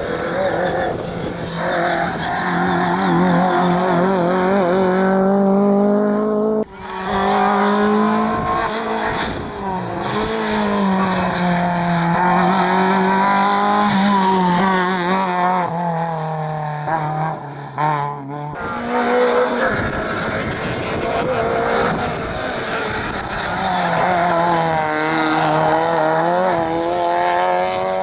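Rally cars driven hard uphill, engines revving high and rising and falling in pitch with each gear change and lift off the throttle. The sound breaks off abruptly twice, about a quarter of the way in and again about two-thirds through, and picks up again on a new run.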